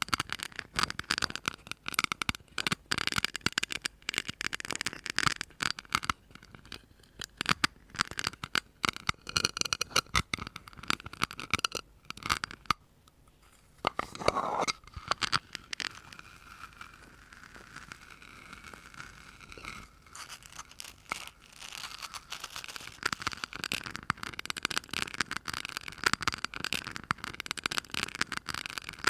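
Close-miked ASMR tapping and scratching: quick taps and scrapes in a dense stream. They pause briefly about halfway, then a softer, quieter stretch follows before the quick tapping picks up again near the end.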